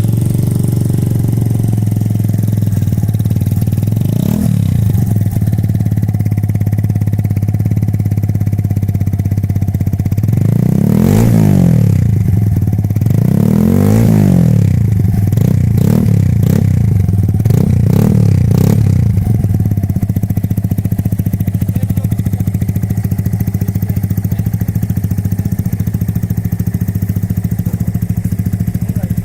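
Brixton Classic 150 motorcycle's single-cylinder engine running loud at idle, given a quick throttle blip about four seconds in and a series of revs between about eleven and nineteen seconds, each rising and falling back, before settling to a steady idle.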